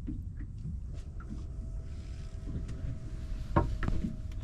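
Fishing boat sitting on the water: steady low rumble of wind and water, a faint steady whine from about a second in, and two sharp knocks near the end.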